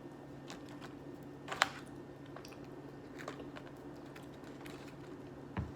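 Close-miked chewing of Chicken McNuggets: soft, scattered mouth clicks and smacks, with one sharper click about a second and a half in and a low thump near the end, over a steady low hum.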